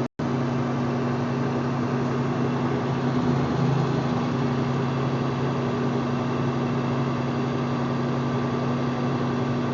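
Semi truck's diesel engine running at a steady pitch, heard from inside the cab over road noise, as the loaded rig descends a steep grade held back by the engine rather than the service brakes.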